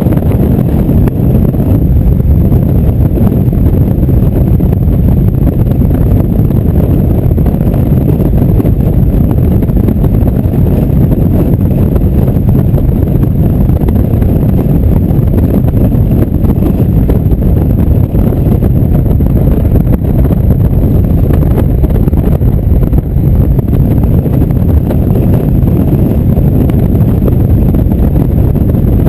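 Motorcycle cruising at a steady speed: wind rushing over the microphone mixed with engine and road noise, a low, even rumble with no change in speed.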